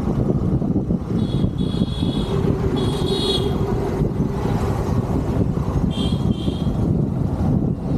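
Steady rumble of a motorcycle ride in city traffic: engine, road and wind noise. Short high-pitched horn toots sound three times, about one, three and six seconds in.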